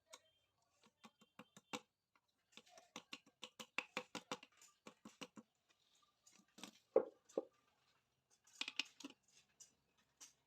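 Irregular light clicks and taps of small metal parts and tools being handled during motorcycle engine assembly, with one louder knock about seven seconds in.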